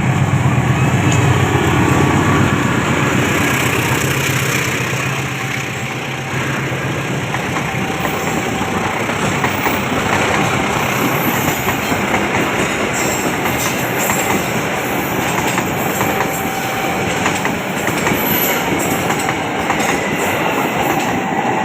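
A train running past on the rails, a loud steady rumble and rattle that eases slightly about six seconds in.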